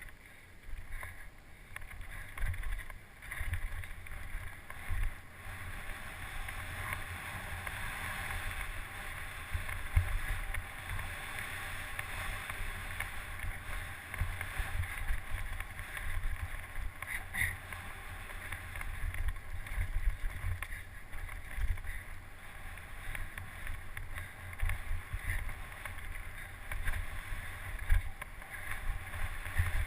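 Wind buffeting the microphone of a camera on a mountain bike descending fast, a steady rushing noise with gusty low rumble. A few sharp knocks stand out, the loudest about ten seconds in and near the end.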